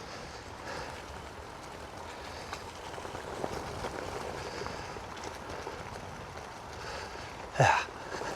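Steady rolling noise of a bicycle's tyres over a leaf-strewn path, with small ticks and rattles from the bike. Near the end a single short, loud sound sweeps sharply up in pitch.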